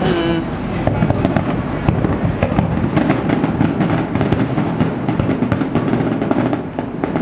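Fireworks display: a dense run of bangs and crackles from shells bursting overhead, one after another without a break.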